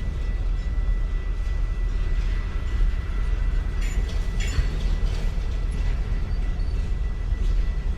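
City ambience field recording: a steady low mechanical rumble with a constant thin high whine, and a couple of short squeaks and clatters about four seconds in.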